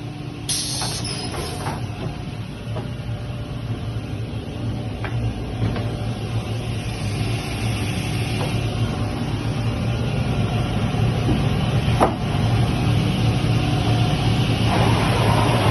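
OMGA optimizing cross-cut saw with pusher running: a steady low machine hum that grows gradually louder, with a short hiss about half a second in and a sharp knock near the end.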